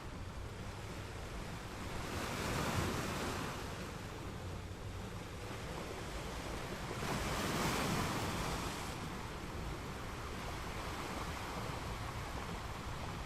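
Ocean waves breaking on a beach and washing up the shore, two waves swelling and falling away about 2 and 7 seconds in over a steady surf hiss, with some wind on the microphone.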